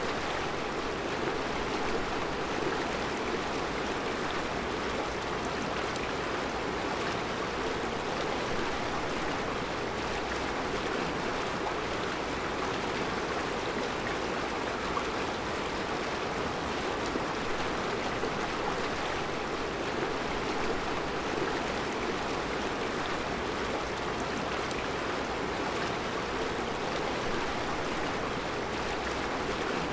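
Mountain river flowing steadily over round rocks in a rocky riverbed: a constant, even rush of water.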